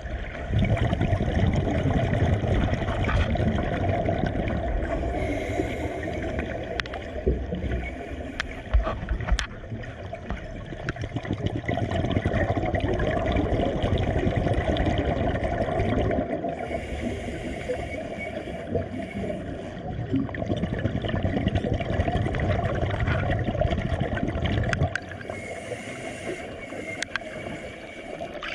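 Water gurgling and sloshing: a steady, crackly churn of water sounds.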